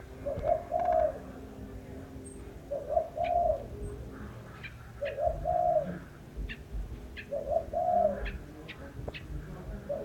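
A dove cooing: a low two-part phrase, a short note then a longer one, repeated about every two and a half seconds, four times. Short high chirps from a smaller bird sound between the phrases.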